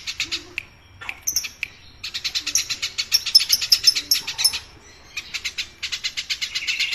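Eurasian tree sparrows (burung gereja) giving fast, chattering runs of short, sharp chirps, about seven or eight a second, broken by brief pauses. This is the noisy sparrow chatter that is played as a 'masteran' to train songbirds.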